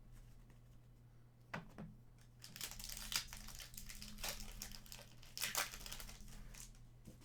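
Plastic wrapper crinkling and tearing as a trading-card pack is opened by hand. It comes in several crackly bursts starting about two and a half seconds in, after a light tap just before.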